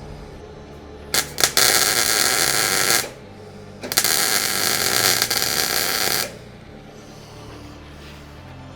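Two loud bursts of steady hissing noise, each about two seconds long with sharp starts and stops, over background music.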